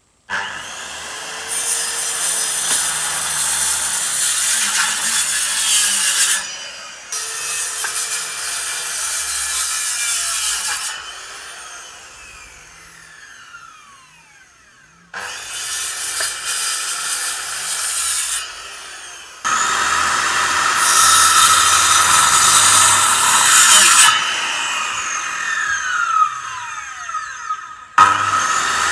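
A power saw cutting wood in several loud stretches. Twice the blade is released and spins down with a falling whine.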